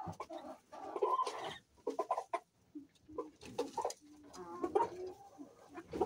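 Chickens clucking, with many short calls overlapping one another and a somewhat longer call about four to five seconds in.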